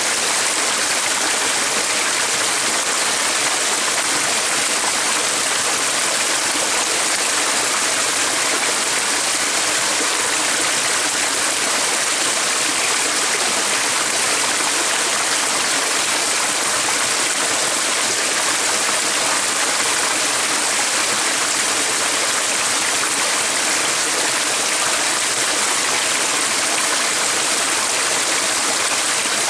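Running water of a stream, a steady, even rushing hiss that does not change.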